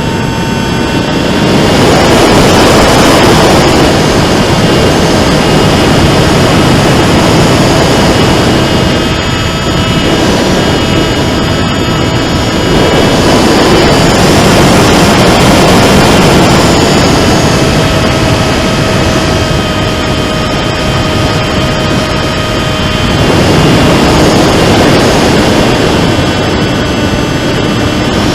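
Rambler-X FPV flying wing's motor and propeller whining steadily under a loud rush of wind and airflow over the onboard microphone. The motor's pitch drifts slightly, and the overall level swells and eases every several seconds as the wing manoeuvres in gusty air.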